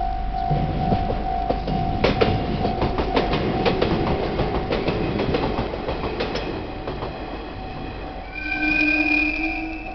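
Japanese level-crossing alarm ringing in a steady pulsing tone while a train runs over the crossing, its wheels clacking over rail joints in a run of sharp clicks from about two to six and a half seconds in. Near the end a horn sounds for about a second and a half.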